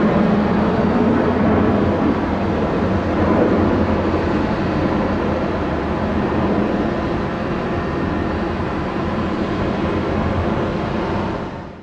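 Jet engines of a departing Boeing 717-200, its two Rolls-Royce BR715 turbofans running at high power in a steady, loud rush of noise that fades out quickly near the end.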